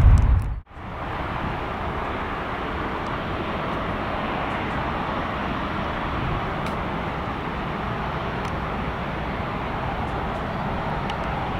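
Deep, loud jet rumble from a departing airliner that cuts off abruptly about half a second in. It is followed by a steady, even jet engine noise from aircraft at the runway.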